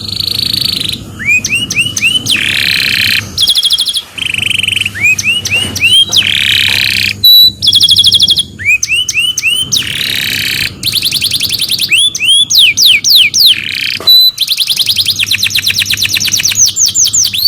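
Domestic canary singing a long, continuous song made of short runs of repeated notes: fast trills, series of rising chirps and buzzy rolls, each run lasting a second or two before it switches to another.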